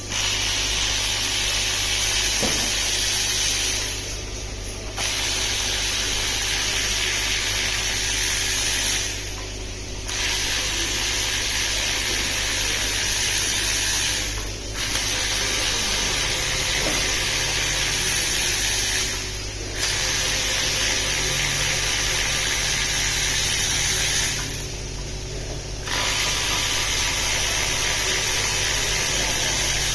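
A power tool runs in six long bursts of about four to five seconds each, with short pauses between them, over a steady low hum.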